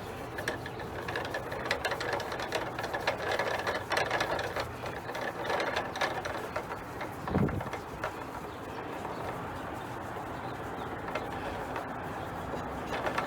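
A fiberglass-and-nylon umbrella stand being screwed by hand into its threaded deck insert: rapid, irregular clicking and scraping of the threads that goes quieter about eight seconds in, once it is seated.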